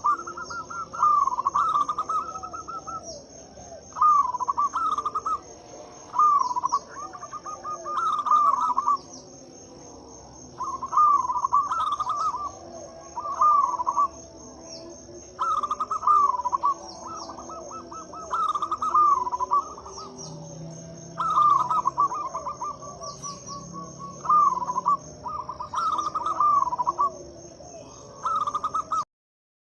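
Zebra dove (perkutut) cooing in repeated trilled phrases, one every two to three seconds, over a steady high pulsing insect trill. The sound stops abruptly about a second before the end.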